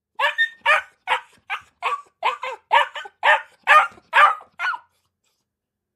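A puppy barking: a quick series of about a dozen short, high-pitched yapping barks, two to three a second, stopping shortly before the end.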